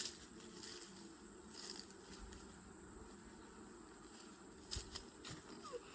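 Honey bees humming steadily around an open hive, with a few light clicks and knocks as the hive's boxes and frames are handled.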